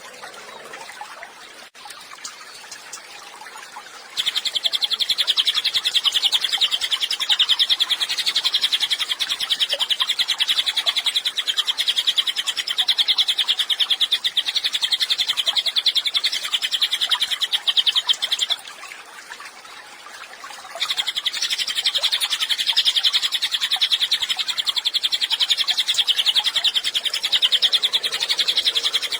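A cililin songbird singing a long, very fast, high trill. It starts about four seconds in, runs for about fourteen seconds, breaks off for about two seconds, then starts again and carries on.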